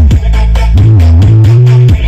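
Loud electronic dance music with a heavy, sliding bassline and a steady beat, played through a large sound system during a sound check.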